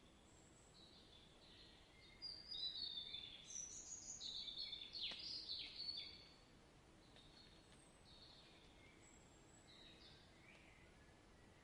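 Songbirds chirping and calling, several overlapping short calls, busiest and loudest from about two to six seconds in, then a few scattered calls over a faint steady background hiss.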